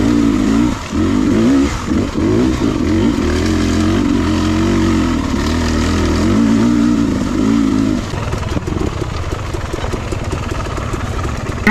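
Two-stroke Beta 300RR dirt bike engine revving up and down with the throttle for about eight seconds. It then drops to a quieter, uneven off-throttle burble, with a sharp rising rev right at the end.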